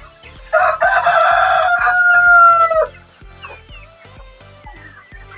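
A rooster crows once, a loud call of about two and a half seconds that ends on a drawn-out, slightly falling note. Background music with a steady beat plays underneath.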